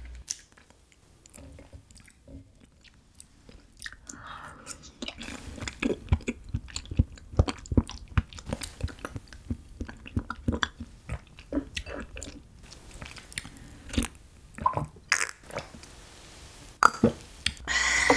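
Close-miked chewing of raw yellow stingray liver: irregular mouth clicks that are sparse at first and grow busier about five seconds in.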